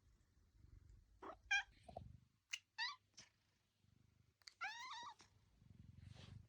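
Domestic cat meowing: a few short meows, then a longer meow about five seconds in that rises and falls in pitch. A low purr runs between the calls and swells near the end.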